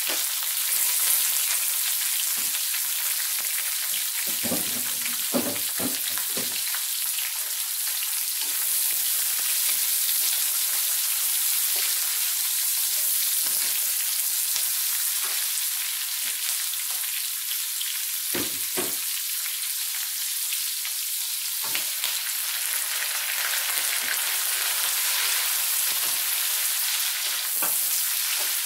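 Dried anchovies, tomatoes, garlic and hot peppers sizzling steadily in hot oil in a metal wok, stirred with a wooden spatula. A few knocks and scrapes of the spatula against the pan, about five seconds in and again near eighteen seconds.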